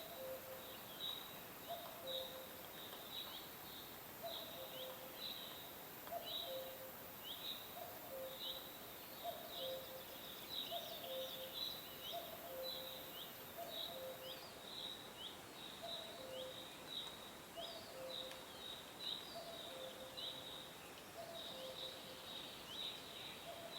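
Many small birds chirping: a dense run of short, high, falling chirps. Under them, a low two-note call repeats about once a second.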